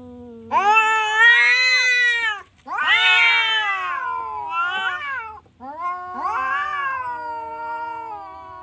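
Orange cat meowing in three long, drawn-out calls, one after another, the last one tailing off more quietly.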